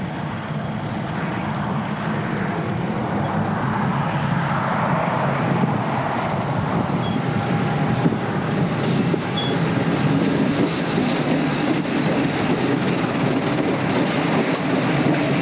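Passenger train with a diesel locomotive, a steady rumble of engine and wheels on rail that grows gradually louder.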